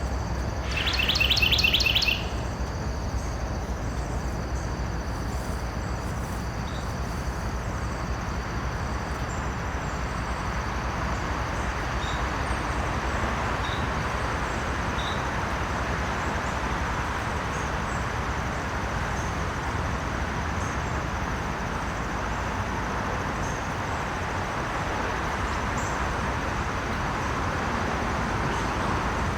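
A bird's rapid trill of repeated high notes, lasting about a second and starting just after the beginning. It sits over a steady outdoor background hiss and low rumble, with a faint high steady drone and a few faint distant chirps later on.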